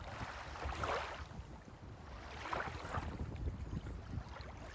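Wind rumbling on the microphone outdoors, an uneven low rumble without any clear tone or rhythm.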